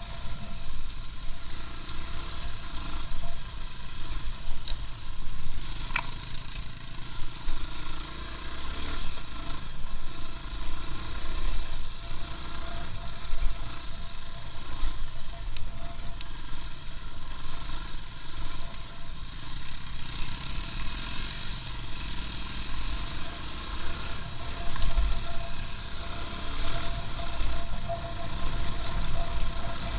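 A vehicle on the move: steady engine and road noise with a thin, steady whine above it, and one sharp click about six seconds in.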